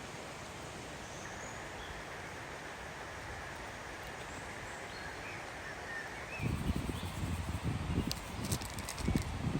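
Outdoor ambience: a steady hiss with a few faint bird chirps. About six seconds in, irregular low rumbling thumps start, with a few sharp clicks.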